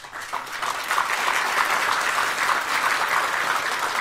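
Audience applauding, a dense steady clapping that starts right as a speech line ends.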